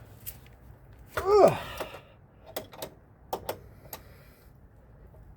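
A man's strained grunt while pulling hard on a wrench against a stuck nut, followed by a few sharp metallic clicks and knocks from the wrench on the fitting.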